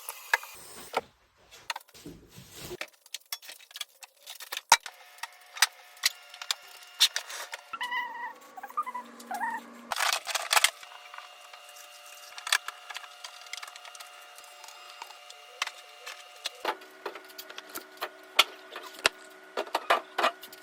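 Repeated clicks, knocks and clinks of food containers and jars being handled and set down while clearing out a fridge. A steady hum runs underneath and shifts pitch a few times.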